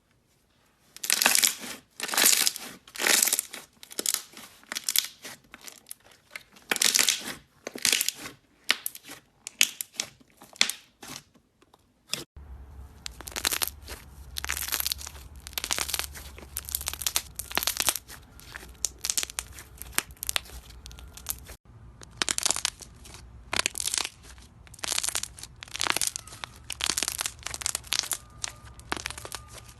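Close-miked crackling and crunching of a crunchy craft material being squeezed and pulled apart, in quick runs of sharp snaps with short pauses. The sound changes abruptly about twelve and about twenty-two seconds in, and a faint low hum lies under the later part.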